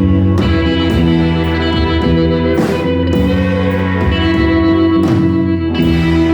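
Live rock band music: electric guitar chords ringing and sustaining over bass, with the chord changing every second or so and occasional strummed or cymbal strikes.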